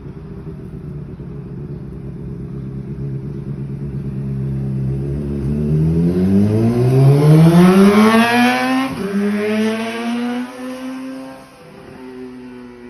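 Honda CBR600RR's inline-four engine running through an SC-Project aftermarket exhaust: a steady note for about five seconds, then the revs climb for three or four seconds to a loud peak. The pitch drops suddenly for a moment, then holds a higher steady note that fades near the end.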